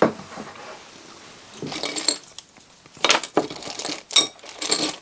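Small metal parts and screws clinking and clicking against each other and the table as they are rummaged for and picked up, a handful of sharp ringing clinks in the latter half.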